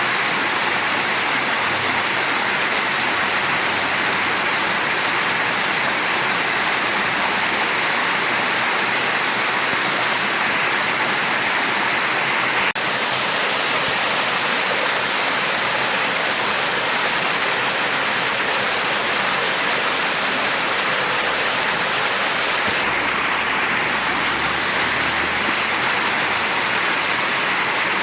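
Mountain stream rushing steadily over rocks: a constant full hiss of running water, with a momentary break about halfway through.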